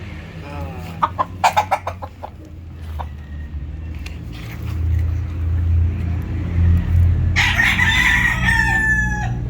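Gamefowl clucking in a quick run of short notes about a second in, then a rooster crowing once near the end, over a steady low rumble.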